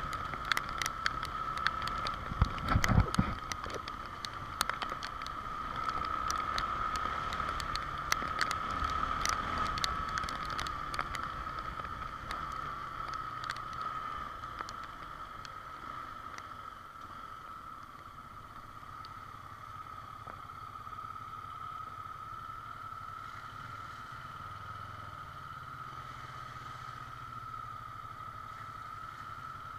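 Honda XR Tornado single-cylinder motorcycle riding in the rain: steady engine and road noise with a constant whine. Through the first half, raindrops tap on the microphone in quick clicks, and a loud low thump comes about three seconds in.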